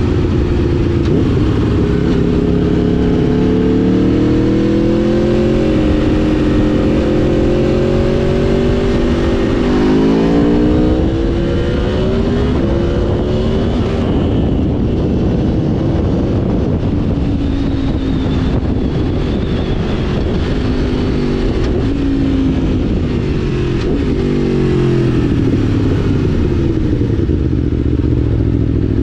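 2011 Aprilia Tuono V4 1000's V4 engine riding through traffic, its pitch climbing under throttle, dropping off sharply about a third of the way in, then rising again near the end.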